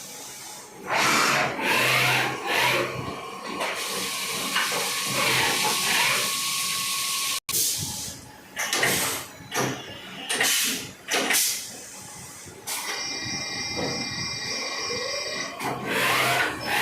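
CNC machining centre at work: repeated short hissing bursts, with a steady thin whine in the first half and a cluster of steady whining tones for a few seconds later on.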